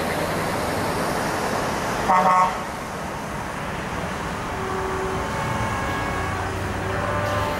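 A truck horn gives one short blast about two seconds in, over steady engine and road noise from passing traffic.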